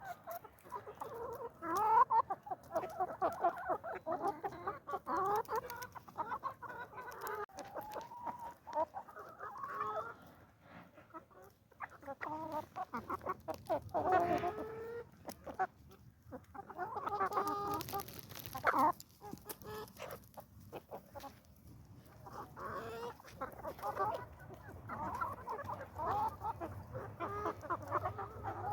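Chickens clucking, many short calls overlapping, with scattered sharp clicks among them.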